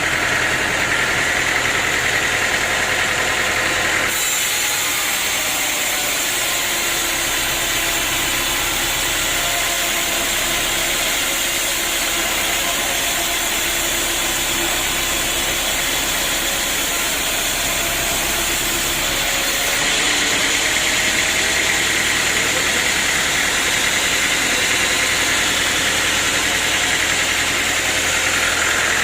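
Sawmill machinery running steadily, an engine-driven hum with a high whine; the sound changes abruptly about four seconds in and changes back about two-thirds of the way through.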